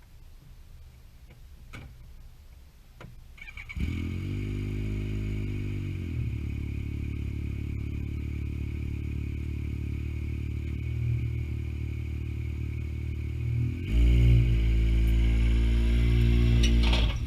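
A vehicle engine starts suddenly about four seconds in after a few faint clicks and settles into a steady run. It runs louder from about fourteen seconds until just before the end.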